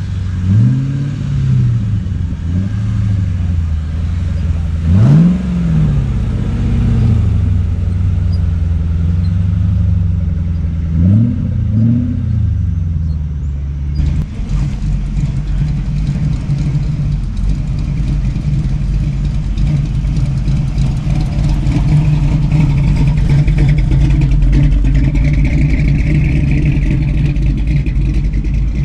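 A car engine idling with a deep burble, blipped up and back down four times in the first twelve seconds, then a steadier, denser engine rumble for the rest.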